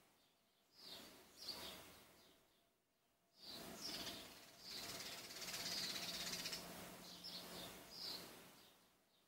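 Faint birds chirping in several short bursts of calls over outdoor background noise.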